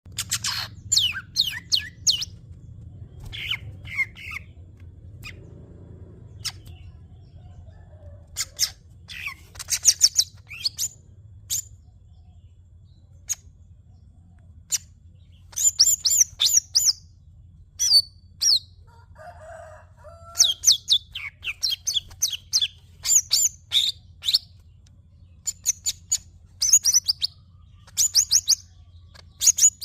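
Green leafbird (cucak hijau) singing in repeated bursts of rapid, high chirps and whistled sweeps, with short pauses between phrases, over a faint steady low hum.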